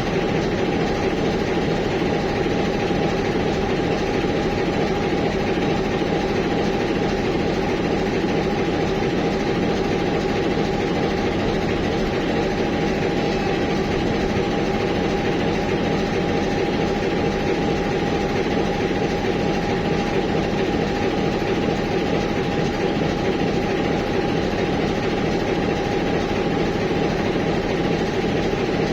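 TEM18DM shunting diesel locomotive's engine idling steadily, with a thin, constant whine over the low engine hum.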